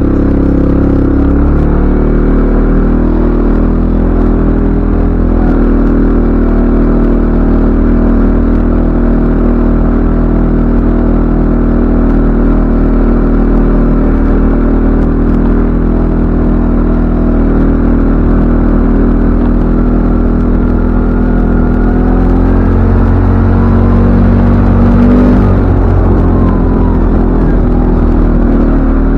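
CFMoto ATV engine running as it is ridden, a loud steady drone, with the revs rising and falling briefly near the end.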